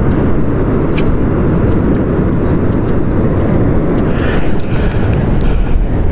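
Wind buffeting the microphone: a loud, steady rush heaviest in the low end, with a single sharp click about a second in.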